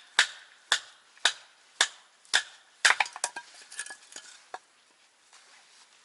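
Repeated sharp chopping knocks, about two a second, with a quick flurry midway and a pause near the end.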